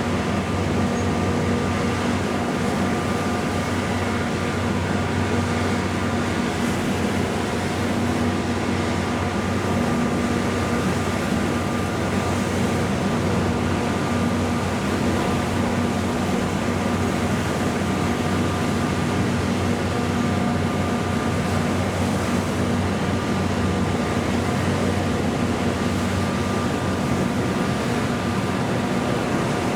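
Steady drone of boat engines: a low hum with a thin higher tone above it, unchanging throughout.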